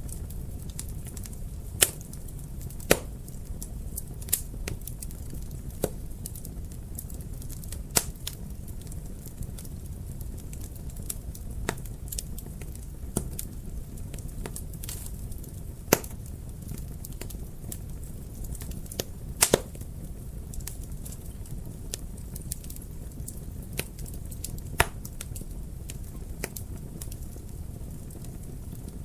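Wood fire burning in a fireplace: a steady low rush of flames with irregular sharp crackles and pops, a few louder snaps standing out.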